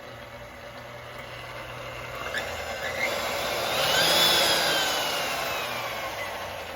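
KitchenAid Pro stand mixer's motor running after its control-arm contact was cleaned and adjusted. Its whine rises in pitch and loudness as it speeds up, peaks about four seconds in, then winds back down.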